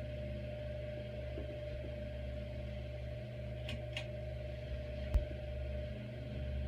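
Hampton Bay Grayton II ceiling fan's motor humming steadily with a held tone. Two faint ticks just before four seconds in, then a single sharp click about five seconds in.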